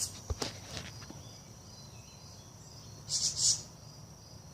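Steady high insect trilling, with two short harsh bird scolding calls about three seconds in and a few light clicks near the start.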